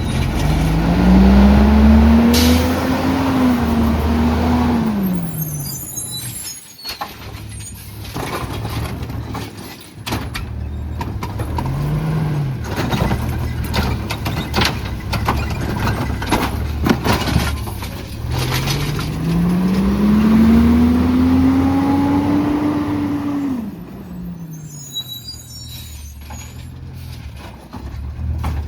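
Autocar ACX garbage truck with a Heil Rapid Rail automated side-loader body, its engine revving up and holding for several seconds, then dropping back to idle, twice. This is the engine raised to power the lifting arm's hydraulics. In between come clanks and the hiss of the air brakes.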